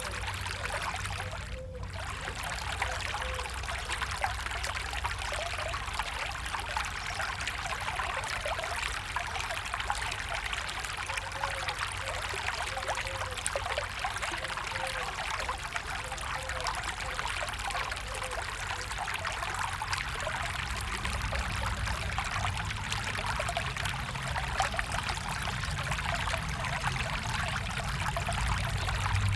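Small stream trickling and babbling steadily. The sound cuts out for an instant about two seconds in.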